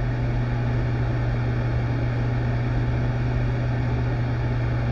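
A steady low hum over a constant hiss, an unchanging machine-like background drone.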